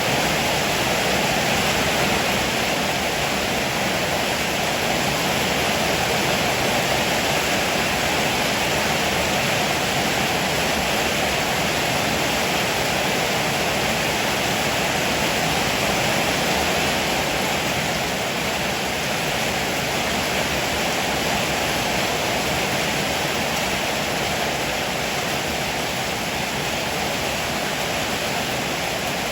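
Heavy rain falling steadily: a dense, even hiss with no thunder claps or breaks.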